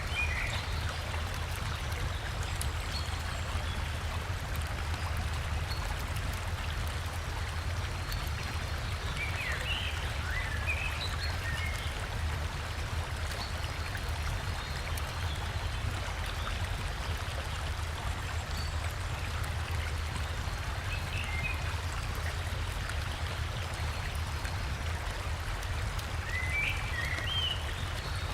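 River water flowing and splashing steadily, with a low rumble beneath. Brief chirps from forest birds come in a few short bouts.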